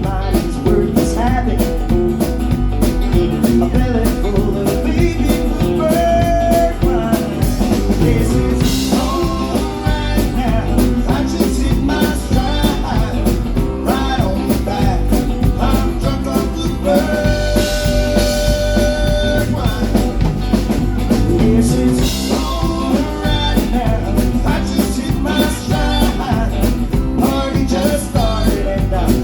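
Live band playing a bluesy rock song with guitar, bass and drums.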